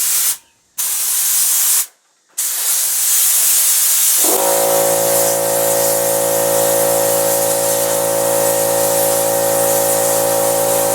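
Compressed air blasting from an air blow gun, two short bursts and then a continuous blast. About four seconds in, the 1 hp electric air compressor's motor and pump kick on and run steadily under the hiss, refilling the 6-gallon tank as the pressure drops.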